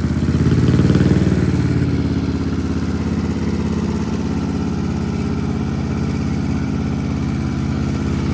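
A vehicle engine running near idle, with a brief rise in revs about a second in, then settling to a steady idle.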